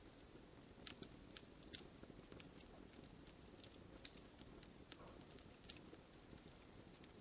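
Faint campfire crackling: scattered, irregular small pops and ticks over a low hiss.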